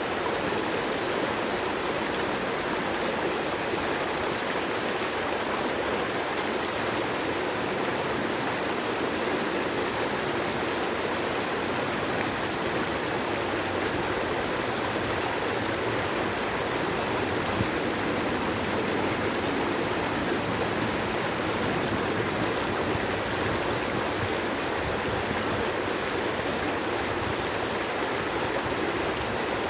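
Flowing water rushing steadily and unbroken, with no changes in strength.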